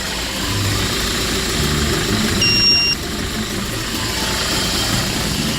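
Hyundai Porter II truck's engine running with a steady low rumble. A short electronic beep sounds once, about halfway through.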